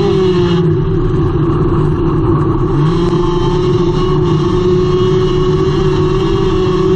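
Engine of a front-wheel-drive hornet-class dirt track race car running hard under racing throttle, heard from inside the cockpit. The engine note dips briefly twice, about half a second in and again near three seconds in, and otherwise holds steady.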